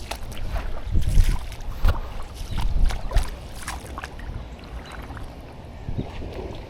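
Irregular splashes and knocks of a canoe being handled in shallow river water, over a low rumble.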